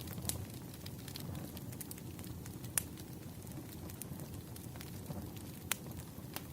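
Wood fire crackling: a steady low rumble with scattered sharp pops, a few standing out clearly.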